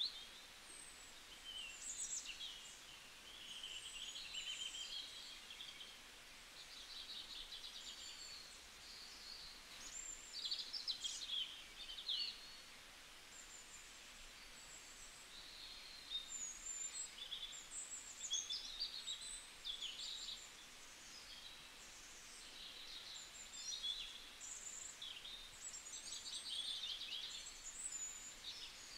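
Small birds chirping and twittering, faint and high-pitched, in quick runs of short chirps and trills with brief pauses.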